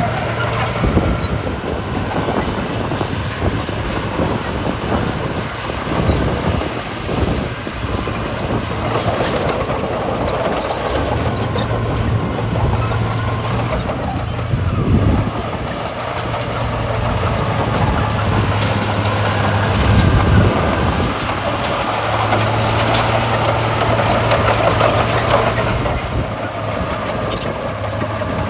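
Heavy diesel earthmoving machinery running under load: a steady low engine drone with scattered metallic clanks and rattles, busier and a little louder about two-thirds of the way through.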